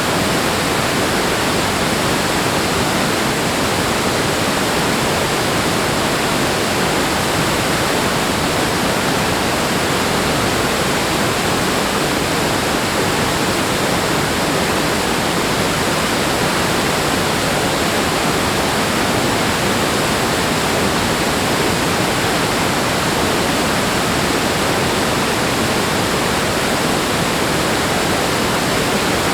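Rushing water making a loud, steady, unbroken roar with no surges.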